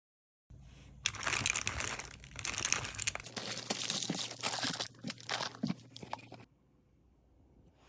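Plastic packaging crinkling and crackling as it is handled, for about five seconds, then stopping abruptly.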